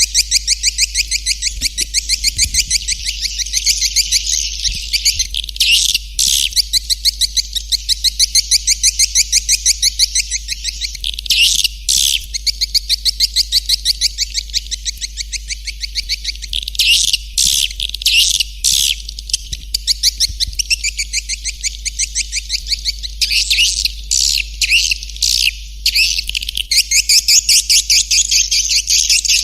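Recorded swiftlet calls: a fast, unbroken twittering of rapid high chirps, with louder bursts here and there, over a steady low hum. This is a swiftlet lure call ('suara panggil'), played to draw swiftlets into a nesting house.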